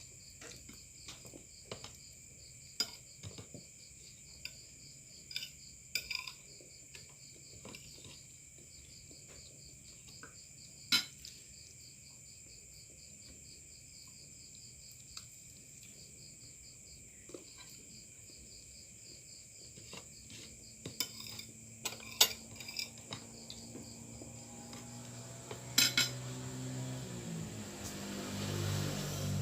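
Spoon and fork clinking now and then against a plate during eating, over a steady chorus of crickets chirping. A low drone builds up over the last few seconds.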